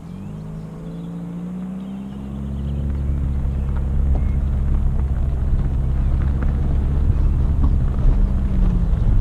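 Ford Focus engine towing a small caravan at low speed. Its note rises over the first two seconds as it pulls away, then holds steady. A rumble grows underneath, with scattered crunching clicks of tyres on gravel.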